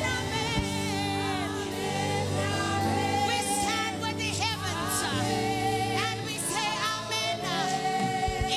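Gospel worship music: singing with wavering, held notes over sustained keyboard and bass.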